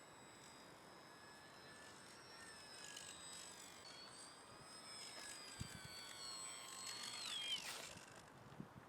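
Faint high whine of a small foam RC plane's motor and propeller in flight, wavering slightly in pitch, then falling sharply in pitch near the end. A couple of brief low thumps come about halfway through.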